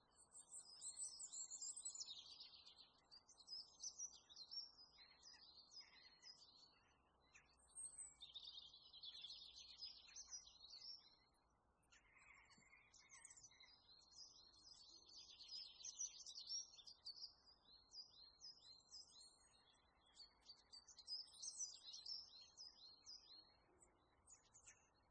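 Faint birdsong: small birds chirping and trilling in repeated quick phrases, coming in several bursts with short gaps between them.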